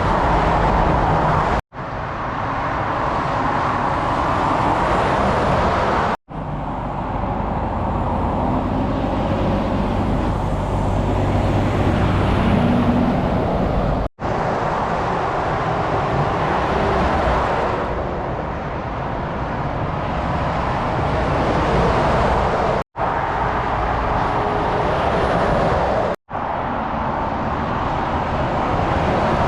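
Motorway traffic passing at speed: steady tyre roar with the drone of lorry diesel engines. The sound drops out for an instant five times at edit cuts.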